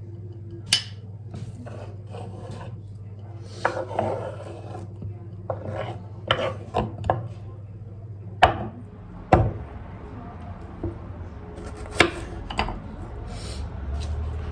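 Irregular knocks and short scraping, rubbing sounds of objects being handled against a wooden surface, over a steady low hum that changes about nine seconds in.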